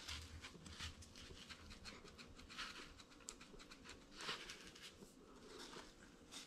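Near silence with faint, scattered scratching and rustling from hands working close to the microphone, with a few soft knocks.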